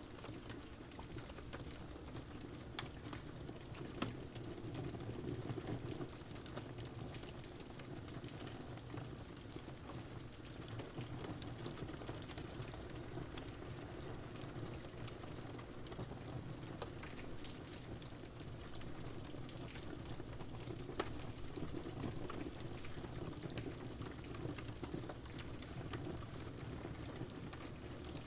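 Wood fire crackling, with scattered sharp pops, the loudest about three and four seconds in and again past twenty seconds, over a steady hiss of rain.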